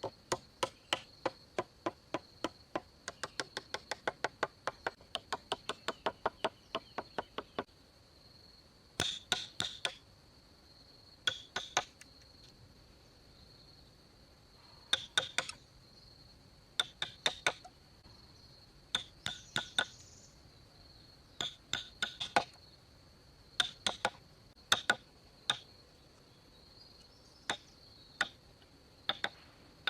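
Sharp tool strikes: a quick, even run of about four knocks a second for the first seven or eight seconds, then short bursts of two to four knocks every second or two. A steady, high-pitched insect drone runs underneath.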